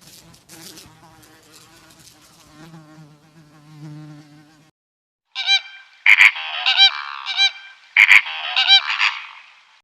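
An insect buzzing faintly, then from about five seconds in geese honking loudly, many calls in quick succession and overlapping.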